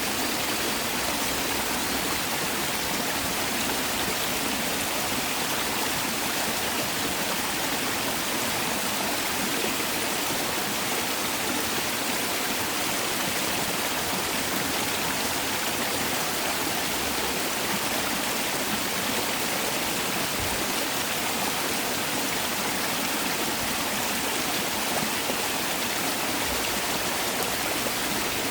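Mountain valley stream rushing over rocks, a steady, even flow of water.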